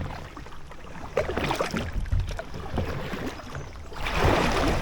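Kayak paddle strokes dipping and splashing in the water, with a louder rush of water about four seconds in. A low rumble runs underneath.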